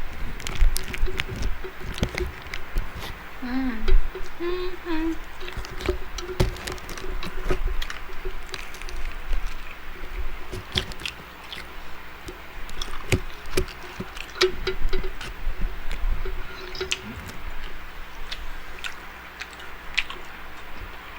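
Close-up eating sounds: irregular wet chewing and lip smacking with many small clicks, from a mouthful of fried chicken leg and rice. A few brief hummed murmurs come about three to five seconds in.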